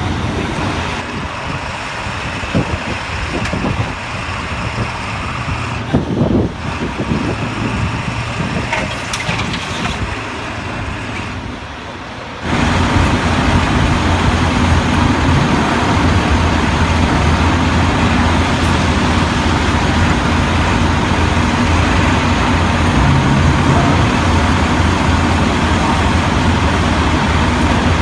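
Tow truck engine running while it pulls a pickup out of a creek, with a few scattered knocks. About halfway through the sound jumps abruptly to a much louder, steady engine drone.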